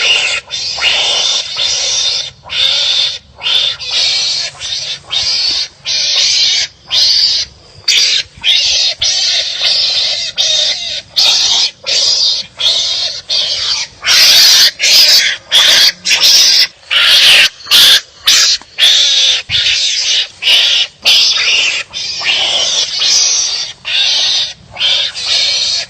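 Wild animals calling harshly at each other, a rapid series of loud, rasping cries about two a second with short gaps between, louder about the middle.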